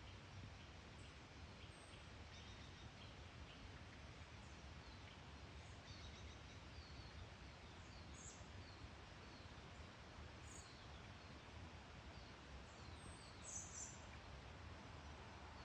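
Common blackbirds giving faint, thin, high calls, scattered short notes over a steady low background rumble, with a few louder chirps near the end.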